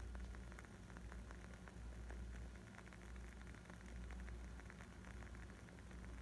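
Wood fire crackling: a dense, irregular stream of small pops and snaps over a low, steady rumble.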